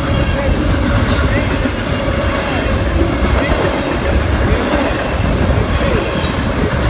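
Double-stack intermodal freight cars rolling past close by: a steady loud rumble and clatter of steel wheels on the rails, with short squeals from the wheels now and then.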